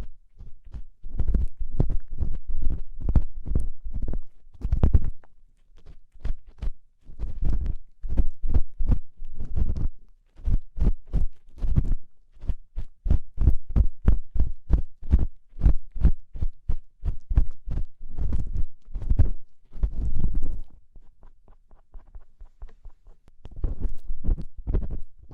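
Ear-cleaning tool scraping and rubbing inside a binaural microphone's ear: repeated short strokes, a few a second, each with a deep thud from the contact, broken by brief pauses and softer for a few seconds near the end.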